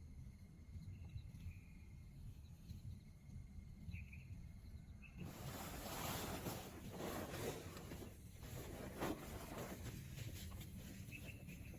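Insects chirping in short trills over a low steady rumble. About five seconds in, a louder rustling, crackling noise starts suddenly and runs for about six seconds before the chirping comes back.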